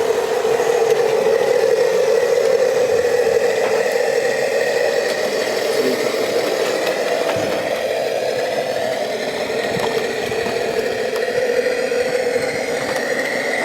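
Sound effect from a 16mm-scale model locomotive's sound unit: a steady, engine-like drone that wavers slightly in pitch.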